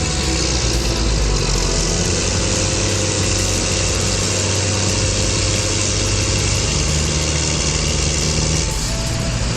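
Heavy vehicle engines running steadily and loudly, a dense mechanical noise with a low hum. The low pitch shifts abruptly near the end.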